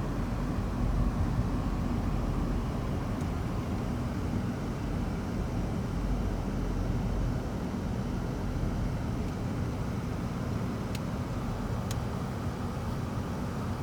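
Steady low rumble of vehicle and road noise with no clear engine note, with two faint short clicks near the end.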